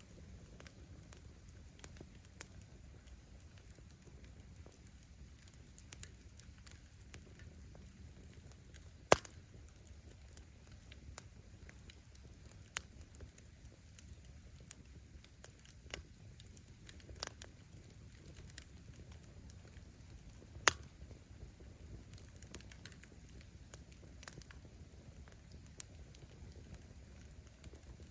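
Campfire of firewood burning with a low steady rumble of flame and scattered crackles, plus two sharp, loud pops of the wood bursting, about a third of the way in and again about three-quarters through.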